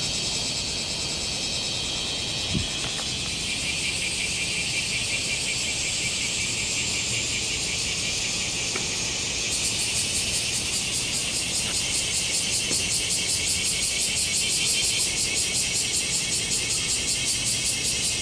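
A dense chorus of cicadas buzzing, a loud steady high-pitched drone. About halfway through, a rapidly pulsing cicada call joins in and grows a little louder.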